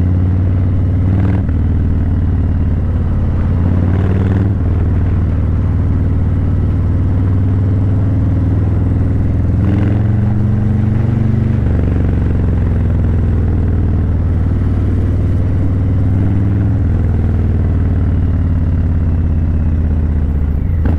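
Harley-Davidson Breakout 117's Milwaukee-Eight 117 V-twin running through Vance & Hines Eliminator 300 slip-on mufflers while riding, a steady low exhaust note. The note shifts in pitch briefly a few times, around one, four and ten seconds in.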